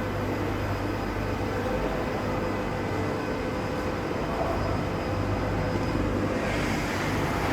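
Steady machinery hum and whir of a print shop floor, with several faint steady tones running through it. A brighter hiss joins about six and a half seconds in.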